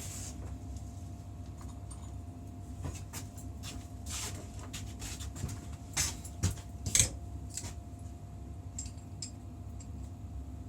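Light clinks and knocks of hard objects being handled, with three louder knocks close together just past the middle, over a steady low hum.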